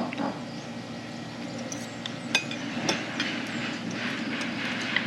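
Cutlery clinking against plates and glasses, a few sharp clinks over a steady background of room noise.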